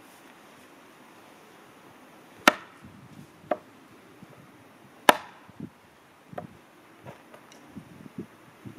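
An axe chopping firewood: two sharp strikes into wood about two and a half seconds apart, each followed by smaller knocks.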